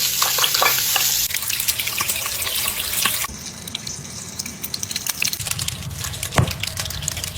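Crackling, fizzing liquid sound: a dense hiss full of small clicks. It thins out twice, about a second in and again about three seconds in, with one louder click near the end.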